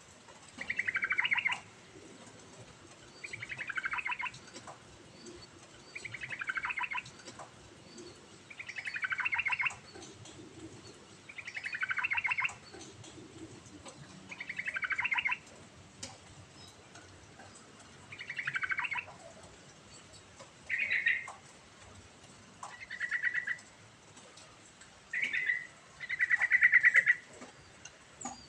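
Yellow-vented bulbul (trucukan) singing a bubbly phrase of quick notes over and over, about eleven phrases roughly every two and a half seconds. The last few phrases are shorter and steadier in pitch.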